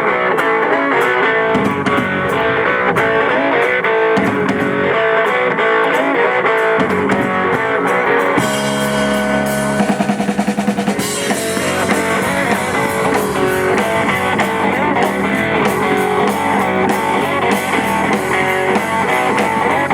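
A live band plays the instrumental intro of a blues-rock song, with electric guitar over a drum kit.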